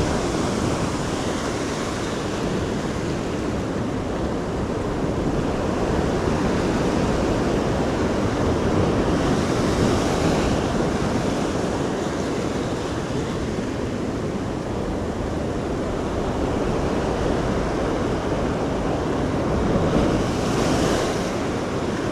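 Ocean surf breaking and washing up the shore, with louder, hissier swells about ten seconds in and again near the end. Wind buffets the microphone.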